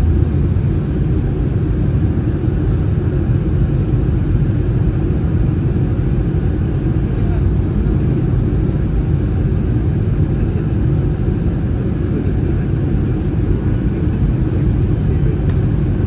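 Airbus A319 cabin noise in flight: a steady low rumble of airflow and the CFM56 engines heard from inside the passenger cabin.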